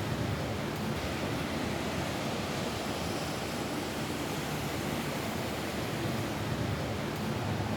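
Rain falling steadily on a roof: an even, unbroken wash of noise with a deep low rumble under it.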